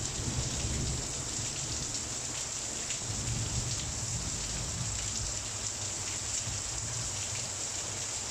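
Heavy rain falling steadily: a dense, even hiss of the downpour with a low rumble beneath it.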